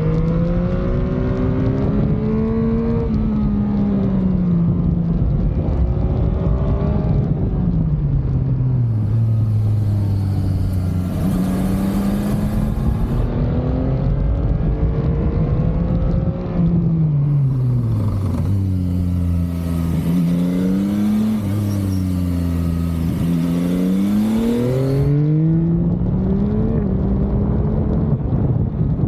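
Motorcycle engine heard from the rider's seat while riding. The revs climb and drop again and again through gear changes and slowdowns. A rushing wind hiss on the microphone joins in twice during the faster stretches.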